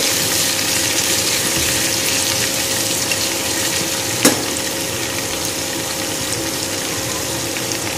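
Hot oil sizzling steadily in a small pan as curry leaves, green chillies, coriander and onion greens fry for a tempering, stirred with a spatula. One sharp tap a little past halfway.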